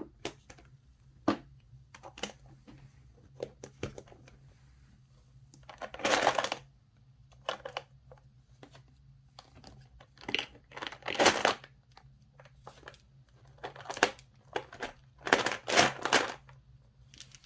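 Irregular crinkling and rustling handling noises, like plastic being crumpled, with a few sharp clicks in between; the longest and loudest bursts come about six seconds in, around eleven seconds, and again near the end.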